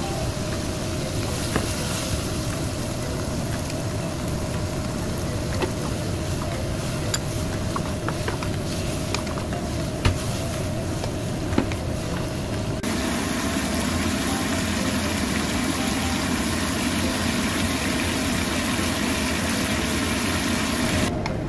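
Beef and vegetables sizzling as they stir-fry in a wok over a gas burner, under a steady hum. A few sharp knocks of the wooden spatula against the wok come in the first half. About thirteen seconds in the sound changes to a fuller, steadier sizzle.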